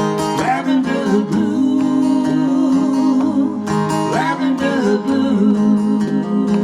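Live acoustic music led by a strummed acoustic guitar, with a melody line gliding over it.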